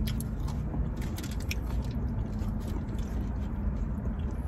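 A person biting into and chewing a buffalo chicken wing close to the microphone, with short wet mouth clicks scattered throughout, over a steady low rumble.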